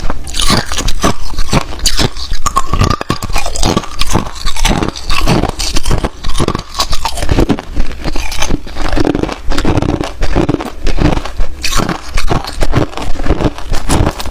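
Hard clear ice being bitten and chewed: repeated loud, sharp crunches and cracks following one another without pause.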